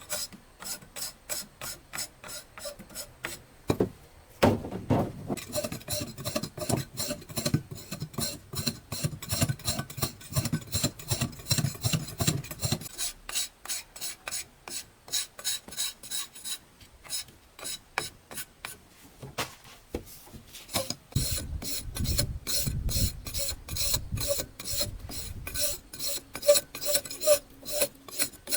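Steady rhythmic mechanical clicking, about three a second, with a heavier rasping, grinding layer that comes in twice for several seconds.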